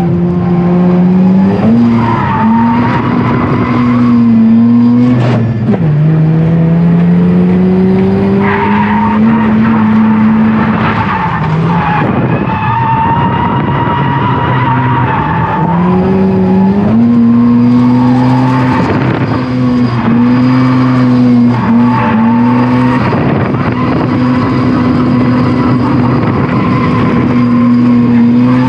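Mazda FC RX-7's naturally aspirated 13B rotary engine revving hard while drifting, its pitch climbing and dropping with the throttle, with a sharp drop and climb about 5 seconds in, near 12 seconds and near 16 seconds. Tyres skid and squeal along with it.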